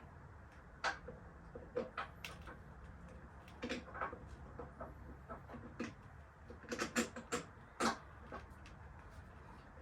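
Scattered light clicks and knocks, irregular and a few louder ones near the end, over a low steady hum.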